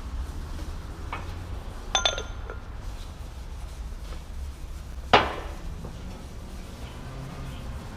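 Steel tools and parts clinking and knocking against metal during wheel bearing work. A light clink comes about a second in, a ringing double clink at about two seconds, and the loudest knock just after five seconds, all over a steady low hum.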